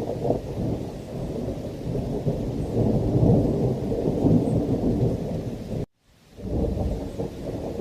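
Thunderstorm ambience: a continuous low rolling thunder rumble with rain, swelling in the middle. About six seconds in it cuts out abruptly for a fraction of a second, then resumes.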